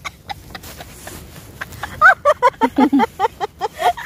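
Faint clicks and handling noise, then from about halfway a person's voice in short, quick syllables.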